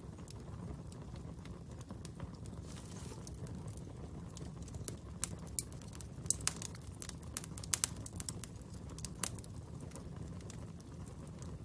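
Fire burning with a steady low rush and scattered sharp crackles and pops, which come thickest through the middle of the stretch.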